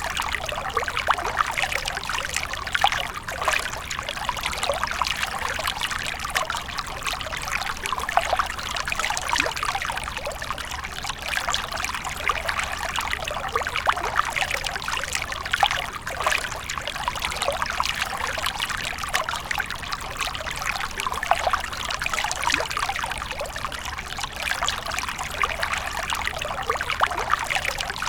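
Water fountain: water splashing and trickling steadily, in a dense patter of small drops and pours.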